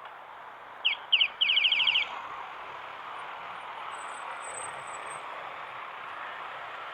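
A bird calling: two short falling chirps, then a quick run of about eight in a row, over steady background noise.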